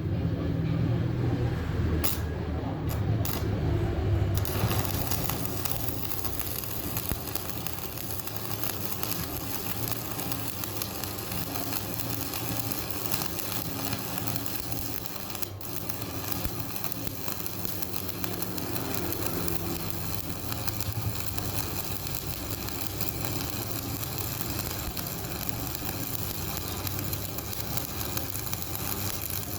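Electric welding on a cracked truck wheel rim: a few clicks over a low hum, then the arc strikes about four seconds in and crackles steadily.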